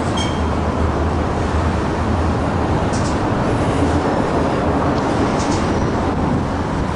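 Freight train running, a steady loud rumble with a low drone underneath.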